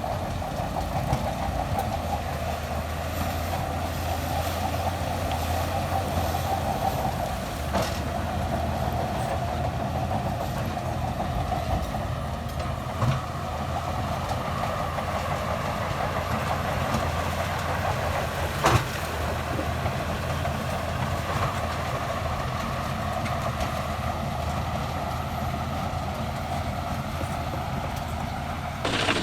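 Crawler bulldozer's diesel engine running steadily under load, with a few sharp metallic clanks scattered through.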